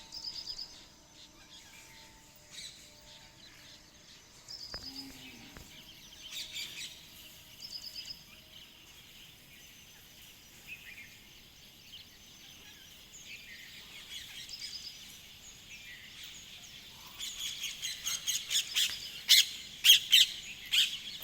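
Small birds chirping and calling: scattered short high chirps at first, then a dense, louder spell of chattering over the last few seconds.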